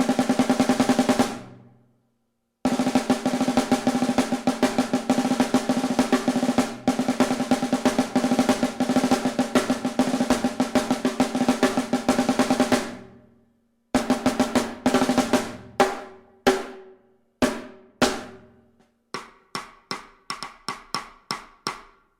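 SJC Custom Drums Alpha 6.5x14 aluminum snare drum with a Remo Powerstroke 3 head, played alone: a short fast roll, then a long fast roll of about ten seconds, then single strokes that ring out, spaced apart and then quickening to about two a second. The hits have a crisp crack and a dry tone with a short ring.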